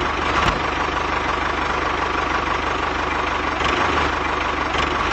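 A small machine running steadily with an even, idling-like mechanical hum.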